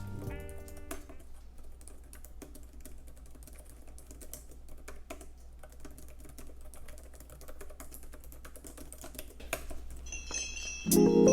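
Typing on a Logitech K380 Bluetooth keyboard: a quick, uneven run of soft key clicks, a little denser and louder near the end.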